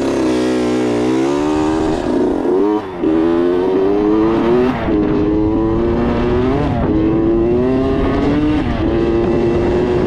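Kawasaki KX85 85cc two-stroke dirt bike engine running hard under throttle. Its pitch climbs steadily, then dips sharply and picks up again, four times.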